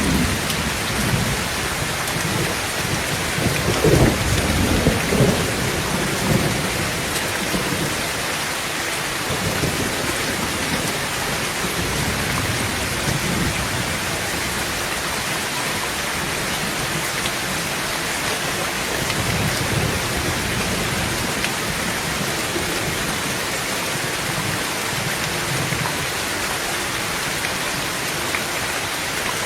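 Heavy rain falling steadily on a tin tent roof, with rumbles of thunder: the loudest about four to six seconds in, a weaker one about twenty seconds in.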